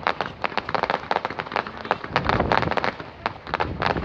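Aerial fireworks bursting in a rapid, unbroken string of sharp cracks and bangs, several every second.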